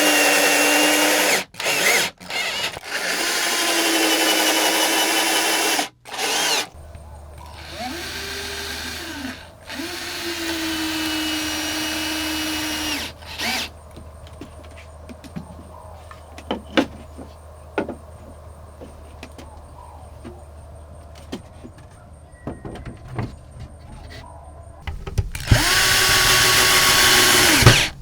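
Power drill running in several bursts of one to a few seconds, spinning up and down at each start and stop. In the middle comes a long pause of quieter scattered knocks and clicks, and the drill runs again near the end.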